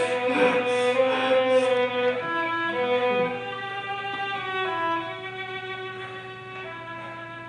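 Slow violin music: long held, bowed notes changing about once a second, fading away over the last couple of seconds.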